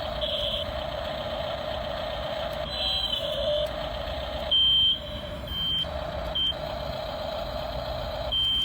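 Toy RC truck's small electric motor and plastic gears whining as it drives, stopping and starting briefly with the throttle, with short high-pitched beep-like tones, the loudest about halfway through.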